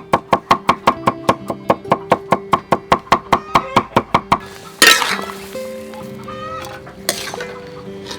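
Rapid, even knocks, about six a second, for roughly the first four seconds, then a sudden loud clatter; chickens cluck afterwards over steady background music.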